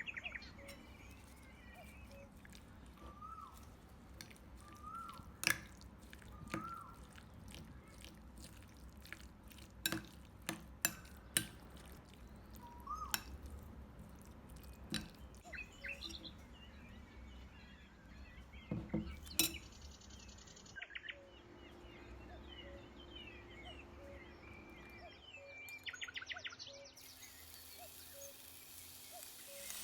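Faint bird chirps in the background, with scattered sharp clicks and knocks, the loudest a few seconds apart near the middle.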